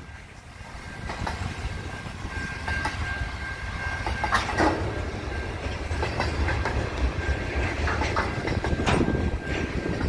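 Freight train of container wagons rolling past, a steady low rumble with wheels clacking over rail joints, several sharp knocks in the middle and near the end. A thin, steady high tone comes in about two seconds in and holds.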